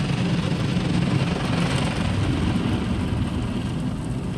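Automatic rollover car wash gantry passing over the car, its rotating brushes and machinery heard from inside the car as a steady low noise that eases off near the end.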